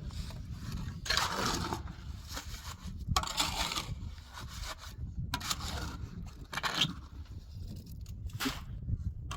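Scraping strokes, repeated about every one to two seconds, each lasting roughly half a second to a second.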